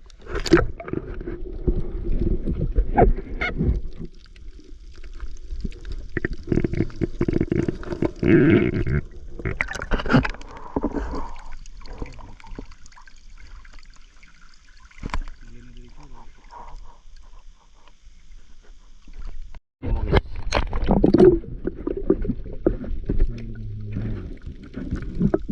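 Water splashing and sloshing in irregular surges with a low rumble, quieter for a stretch in the middle and cutting out briefly near the end.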